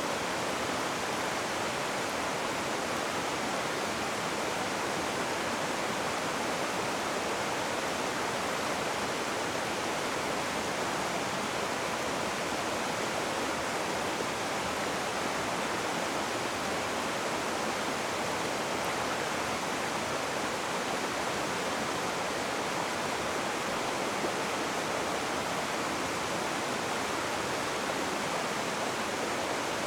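Rushing river water: a steady, even rush of fast-flowing water with no breaks or changes.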